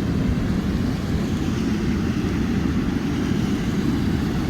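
Steady rush of a fast-flowing river swollen with snowmelt, a low, even roar of water.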